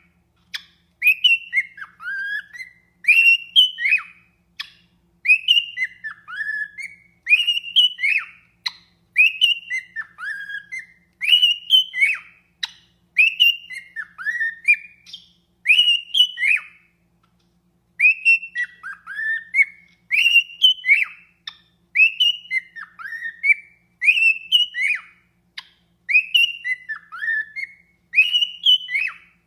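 Cockatiel singing: the same short whistled phrase of rising and falling notes repeated over and over, with a brief pause about halfway through.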